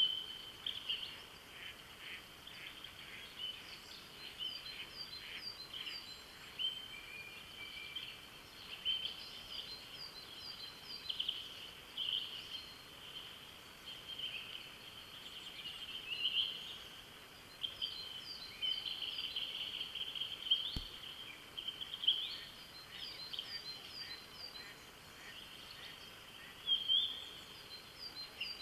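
A dawn chorus of several songbirds singing at once, with short high chirps and quick repeated phrases overlapping one another.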